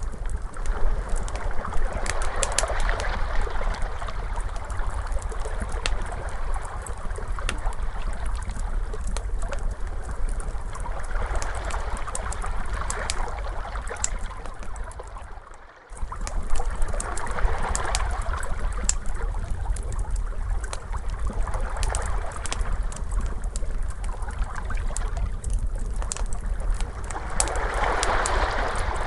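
Ocean waves washing in swell after swell, with the pops and snaps of a crackling fire over a steady low rumble. A little past halfway the sound fades away almost to nothing for a moment, then starts again.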